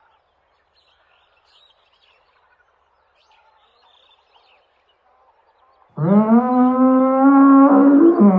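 A few seconds of near quiet with faint scattered chirps, then about six seconds in a loud, long animal call on one low held pitch that steps up slightly near the end.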